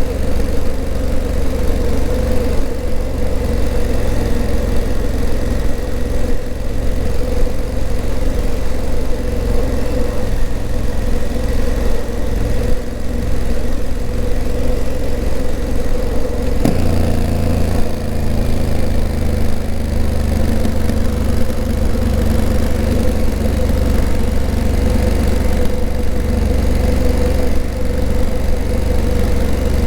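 Honda CRF1000L Africa Twin's 998 cc parallel-twin engine running steadily, its note changing abruptly a little past halfway.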